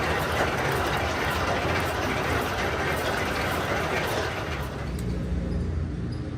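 Workshop machinery running steadily, a noisy machining sound over a low hum. The upper part of the noise dies away about five seconds in.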